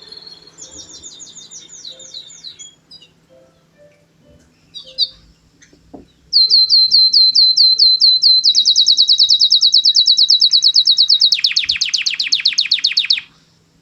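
A canary singing. A short trill comes first, then a pause with a few soft notes. About six seconds in, a long, loud run of repeated down-sweeping notes begins, speeds into a rapid trill, drops to a lower, even faster trill, and stops abruptly near the end.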